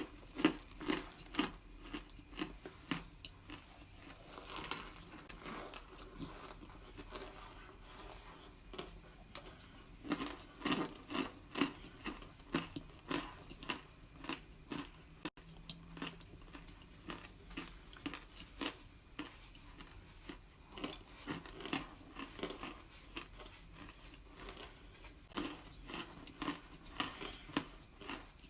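Crunchy homemade cornstarch chunks being bitten and chewed, with repeated crisp crunches about two a second.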